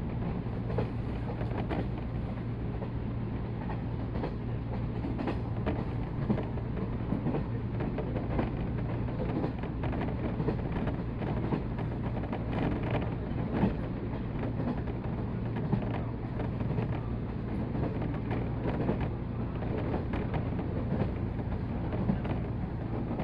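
JR 185 series electric train running, heard from on board: a steady rumble with a constant low hum and scattered light clicks and knocks.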